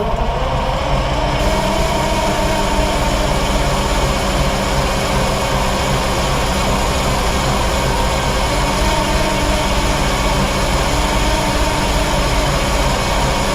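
Chevy C-90's Detroit Diesel engine being cranked over by its starter after a shot of ether, a steady, unbroken mechanical churn with a whine over it.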